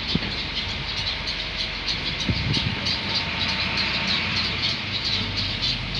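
A chorus of many birds calling at a heron nesting colony: short high calls repeat several times a second over a steady low rumble, with a low thud about two seconds in.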